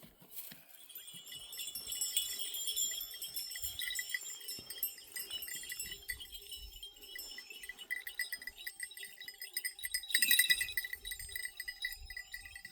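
Livestock bells on a herd of goats and sheep ringing and clinking in an overlapping jangle, with a louder flurry about ten seconds in.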